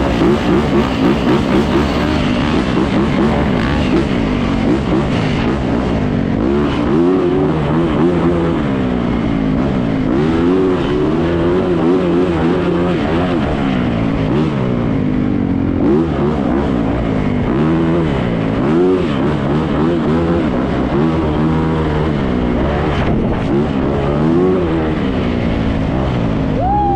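Yamaha YZ450F dirt bike's single-cylinder four-stroke engine being ridden hard, its revs climbing and dropping again and again as the throttle is worked.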